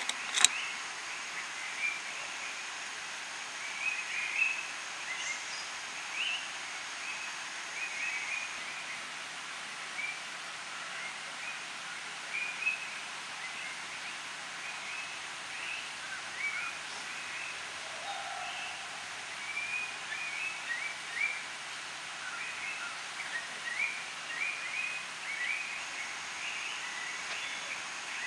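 Rainforest birds chirping, many short calls scattered throughout over a steady background hiss. A thin high steady insect-like whine runs for the first several seconds and returns near the end, and a single sharp click sounds about half a second in.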